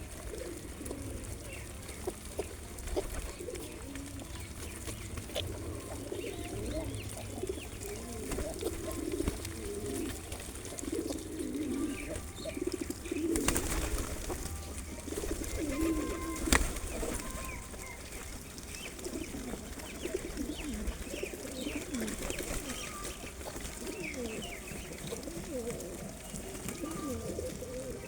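A flock of pigeons cooing continuously, many calls overlapping, with a few higher chirps from smaller birds. Two brief sharp noises come about halfway through.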